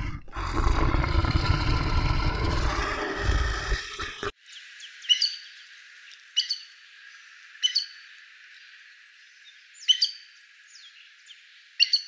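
A large animal's loud, low roar for about four seconds, cut off abruptly, followed by a bird's short, high chirps, five clear ones a second or two apart with a few fainter ones between.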